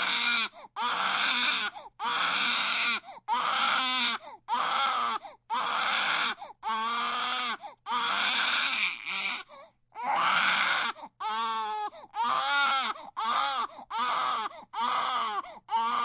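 Baby crying hard: loud wails at about one a second, each broken off by a quick catch of breath.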